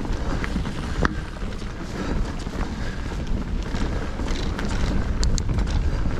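Mountain-bike descent noise: wind buffeting the action camera's microphone while the Fezarri Delano Peak Elite's tyres roll over the dirt trail and the bike's chain and parts rattle, with a sharp knock about a second in.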